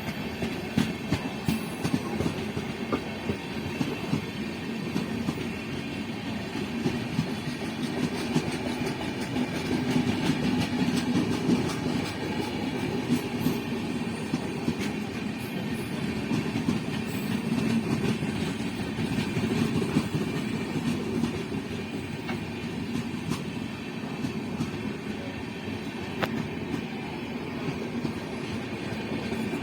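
Train running along the track with a steady rumble and a dense patter of wheel clicks over rail joints, swelling slightly partway through.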